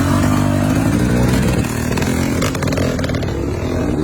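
Off-road motorcycle engine revving unevenly, its pitch wavering up and down, with a brief clatter about two and a half seconds in.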